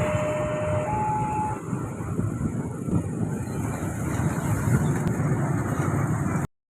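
Taksaka passenger train passing a level crossing: a steady running noise, strongest low down, that eases slightly after the first second. Two brief steady tones sound one after the other in the first second and a half. The sound cuts off abruptly near the end.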